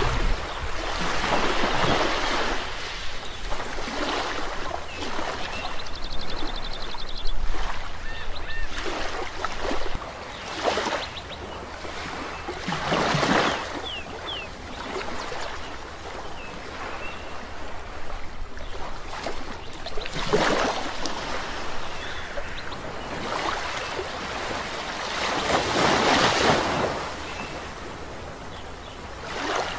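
Sea waves breaking and washing up a shore, swelling and fading every few seconds, the biggest surges about 13 and 26 seconds in. A few short, faint bird calls sound over the surf, with a quick ticking trill about seven seconds in.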